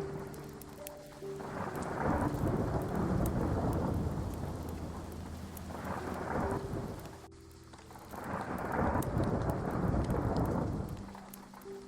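Steady heavy rain with thunder rolling through it, rising in two long rumbles, about two seconds in and again after about eight seconds, and easing between them.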